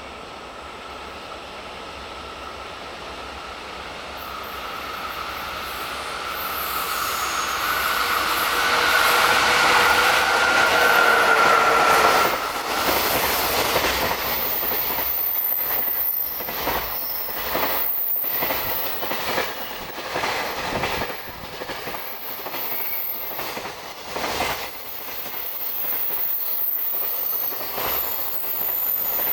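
KiYa 95 'Doctor Tokai' diesel track-inspection train approaching and passing through a station without stopping. It grows louder with a steady whine that peaks about ten seconds in, then the wheels clatter in a regular rhythm over the rail joints as the cars go by.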